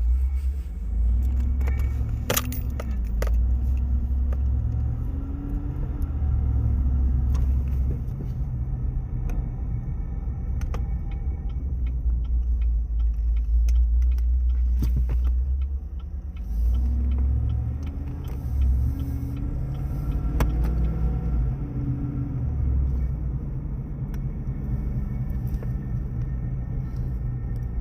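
2016 Chevy Silverado's 6.2-litre L86 V8 heard from inside the closed cab, with a heavy low rumble. It is revved up and back down twice, through the 1250–1500 rpm range where the owner hears a mystery noise that seems to come from the driver's footwell and that he wonders may be tied to torque converter lock-up. A few sharp clicks stand out.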